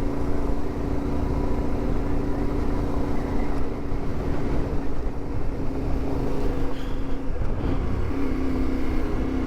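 CFMoto 450MT adventure motorcycle's parallel-twin engine running steadily under way. Its pitch shifts slightly about three and a half seconds in, dips around seven and a half seconds, then settles higher.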